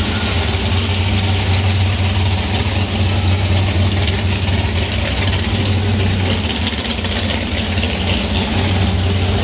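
Muscle car engine idling loudly and steadily, with a deep, even exhaust note, as the car rolls slowly along.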